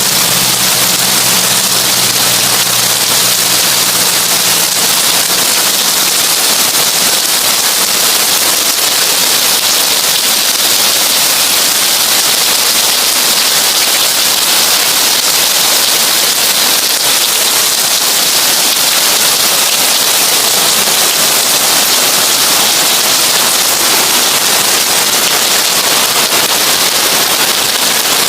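Heavy rain drumming on a tin roof: a dense, steady, crackling patter with no letup.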